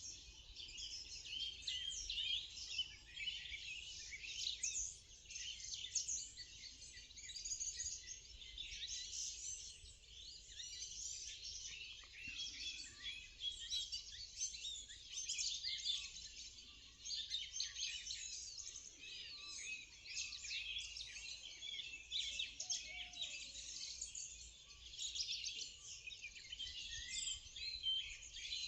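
Morning chorus of many birds: a dense, unbroken mix of high chirps, trills and twittering from several birds singing at once.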